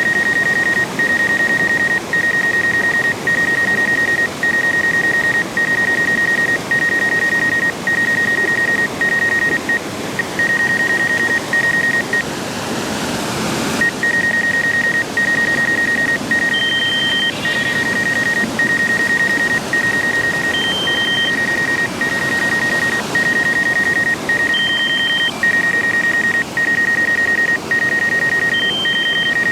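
An electronic beeper sounds a high, steady tone in roughly one-second beeps with brief gaps between them, and in the second half a higher short beep joins about every four seconds. A steady rushing noise lies under it.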